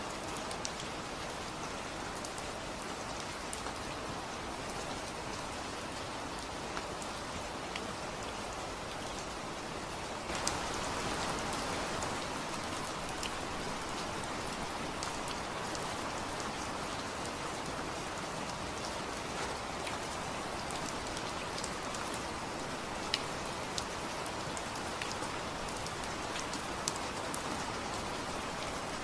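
Steady rain falling on a surface, with scattered sharper ticks of single drops; it gets slightly louder about a third of the way through.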